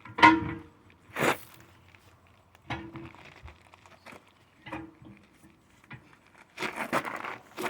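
Metal tire tools knocking against a steel truck wheel, several separate strikes, some ringing briefly, then a stretch of scraping and crunching near the end as the tire bead is worked.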